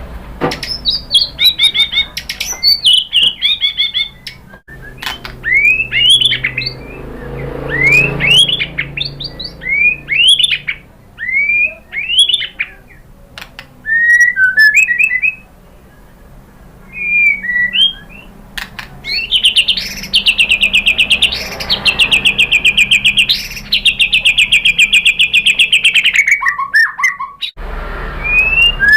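White-rumped shama (murai batu) singing loud, varied whistled phrases of rising and falling notes with short pauses between them. About two-thirds of the way in, it breaks into a long, rapid trill, then ends on a few falling notes.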